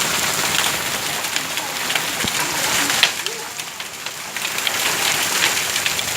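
Hail falling in a dense, steady hiss, peppered with many sharp clicks of hailstones striking, with one louder hit about three seconds in.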